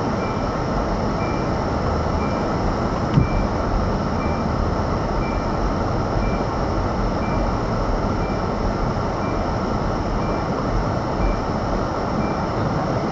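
Steady engine and road noise of a moving car heard from inside the cabin, with a short high beep repeating about every half second and a single knock about three seconds in.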